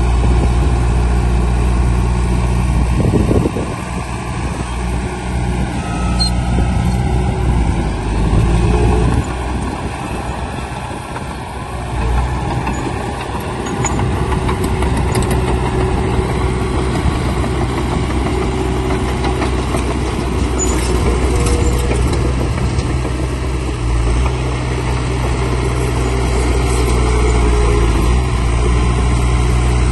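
Heavy diesel engine of earth-moving machinery running at work, its note and load shifting several times and easing for a few seconds about a third of the way in.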